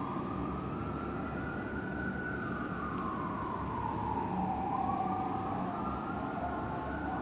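Fire truck siren sounding a slow wail: the pitch climbs, falls gradually through the middle, then climbs again near the end, over the low rumble of the trucks' engines and traffic.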